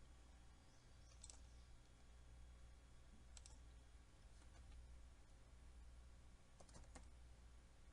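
A few faint computer mouse clicks, scattered about a second or two apart, over a low steady hum.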